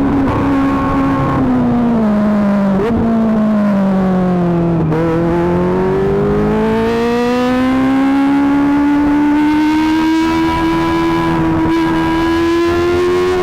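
Kawasaki ZX-25R's 250 cc inline-four engine through an Akrapovic GP titanium exhaust. The engine note drops, with two short blips along the way, to its lowest about five seconds in, then climbs steadily to a high pitch and holds there near the end.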